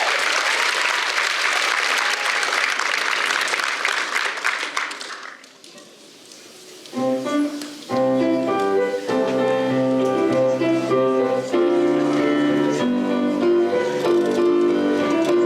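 Audience applauding, fading out after about five seconds. About two seconds later a piano starts playing chords, the introduction to the next choir song.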